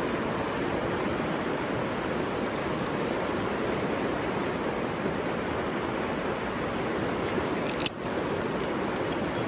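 River water flowing in a steady, even rush. There is a brief sharp click about eight seconds in.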